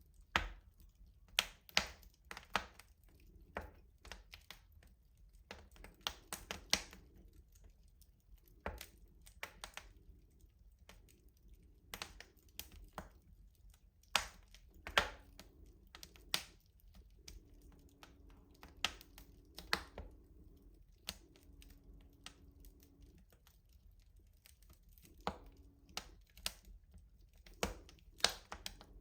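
Wood fire crackling in a traditional rustic stove: irregular sharp pops and snaps, some louder than others. A faint low hum comes and goes behind them.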